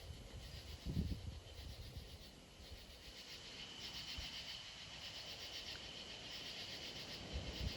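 Night insects chirping in a faint, pulsing chorus that grows a little stronger partway through, with a soft low thump about a second in.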